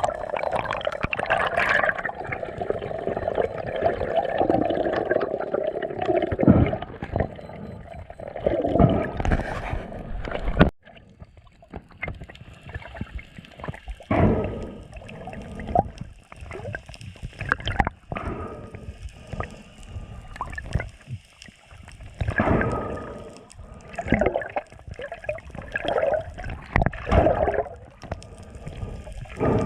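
Water gurgling and sloshing around a camera in the sea during a spearfishing dive, in irregular bursts of bubbles; the sound breaks off abruptly about a third of the way in and resumes as shorter gurgles.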